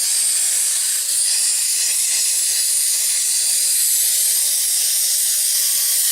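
Steady, loud, high hiss of an electric cutting tool running.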